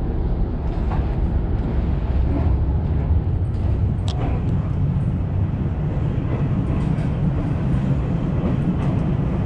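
Steady low rumble of a three-car electric commuter train running, heard from inside its front car, with one short click about four seconds in.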